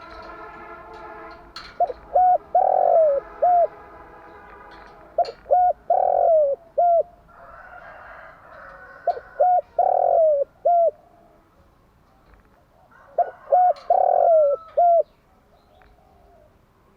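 Spotted dove cooing: four phrases about four seconds apart, each a few short coos, one longer, louder coo, then a short closing note. A faint steady tone with overtones sounds in the first second and a half.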